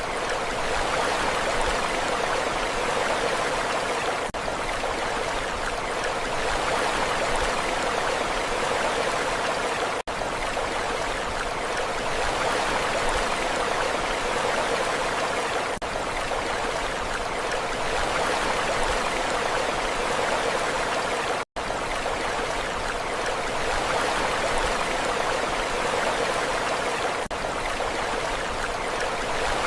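Steady rushing water, an even hiss with no rise and fall of separate waves. The level dips briefly about every six seconds, and cuts out almost completely for an instant about two-thirds of the way through.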